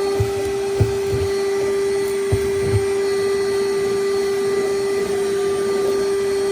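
Vacuum motor running at a steady pitch, with a few light knocks over it.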